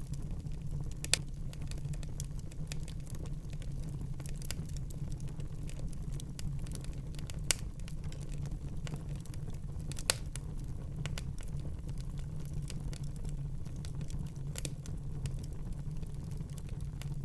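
Wood fire burning in a fireplace and crackling constantly with small irregular snaps, over a steady low rumble. Four louder pops stand out, spread through the stretch.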